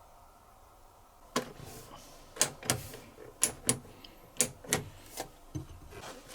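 A series of about ten sharp mechanical clicks and knocks at an irregular pace, starting about a second in.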